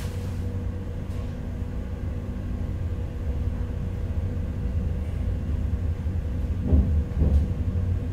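Inside a 485-series electric train pulling slowly out of a station: a steady low rumble with a faint steady hum. Two heavier low knocks come near the end.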